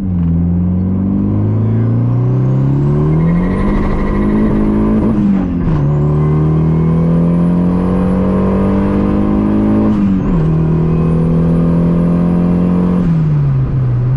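Car engine accelerating through the gears. The engine note climbs, then drops sharply at upshifts about five seconds in, about ten seconds in, and near the end. A thin high whine rises along with the engine speed in each gear.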